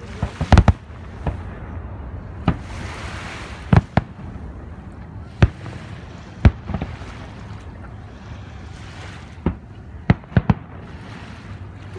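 Aerial fireworks shells bursting: about a dozen sharp bangs at irregular intervals, several in quick succession about half a second in and again near the end.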